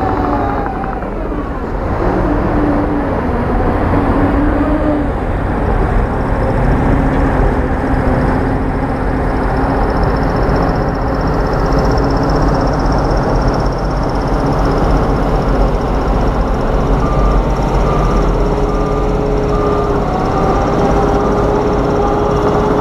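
Heavy diesel construction machinery working: engines running steadily with their pitch rising and falling under load. A reversing alarm beeps in an even series about three-quarters of the way through.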